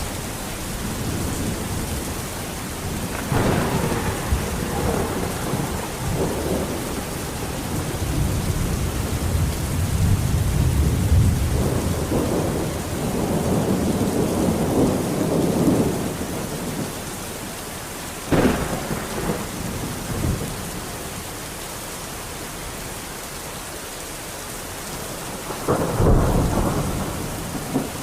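Steady heavy rain with thunder: a sharp crack of thunder about three seconds in, a long low rolling rumble through the middle, and two more sudden cracks near the end.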